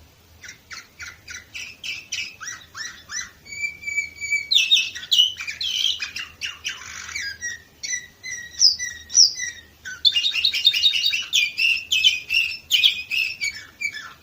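Domestic canary singing a long song. It starts about half a second in with rapid repeated chirping notes, holds steady whistled tones around the fourth second, and breaks into a dense fast trill in the last few seconds.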